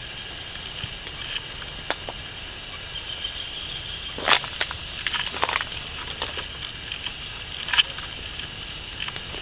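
Irregular crunching and crackling footsteps on dry leaves and twigs of a forest floor, loudest about four seconds in and again near eight seconds, over a steady high-pitched background drone.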